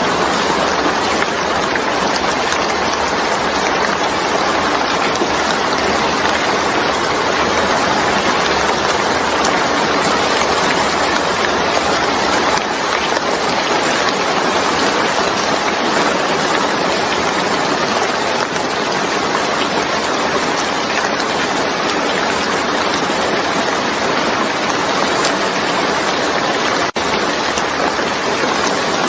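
Steady, dense rain falling, an even hiss of drops with no let-up, briefly cut by a momentary dropout near the end.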